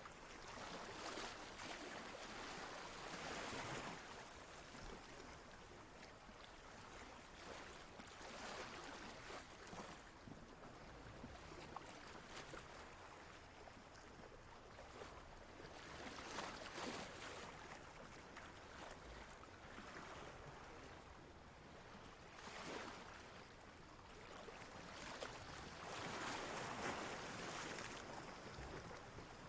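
Soft ocean waves washing in, the rush of water swelling and easing every few seconds.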